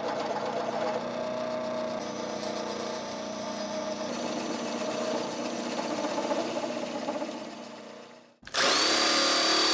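Power drill running steadily, fading and winding down near the end, as the aluminum plates are fixed to the plastic shelf. After a short break, a different steady sound with a high whine starts.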